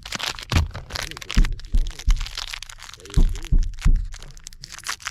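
Objects being handled and rummaged through, with irregular sharp cracks, crinkling and several low knocks.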